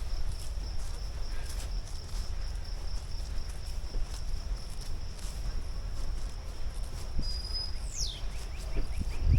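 Steady high chorus of insects, such as crickets, trilling throughout over a low rumble, with faint footsteps on the trail. Near the end a bird gives a short whistle that falls sharply in pitch.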